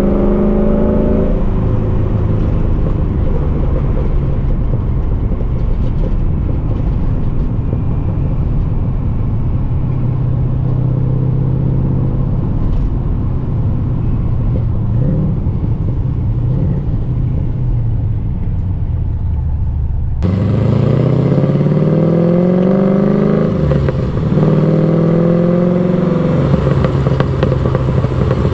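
LS1 V8 exhaust in a swapped BMW E36 running at a steady, low-revving cruise. About two-thirds of the way in the sound changes abruptly and the engine revs up twice, with a short dip between the two pulls, then holds steady.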